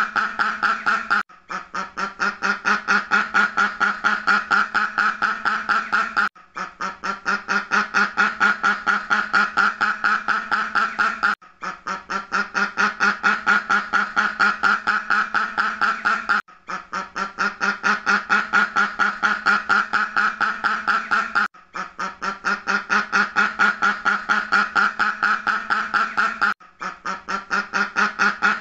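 Duck quacking in a rapid, continuous run of several quacks a second. It is a short recording looped, with a brief break about every five seconds.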